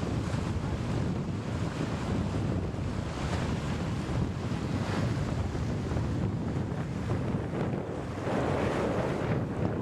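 Wind noise on the microphone over the rush of water along a sailboat's hull as it sails. The noise is steady, with a louder, brighter rush a little after eight seconds in.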